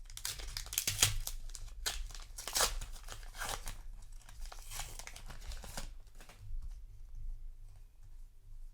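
Paper booster-pack wrapper being torn open and crinkled, crackling for about six seconds, then quieter rustling as the cards are handled.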